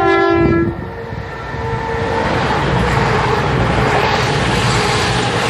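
A train horn gives a two-note blast, high then lower, ending within the first second. Then the rushing rumble of a train running past builds and holds steady.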